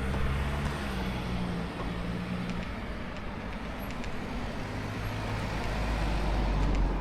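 A motor vehicle's engine running with a steady low rumble and road noise, growing a little louder near the end.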